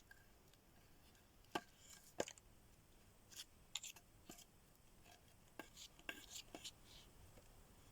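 A knife cutting food on a board: irregular sharp knocks and taps. Two louder knocks come in the first few seconds, then lighter cuts follow.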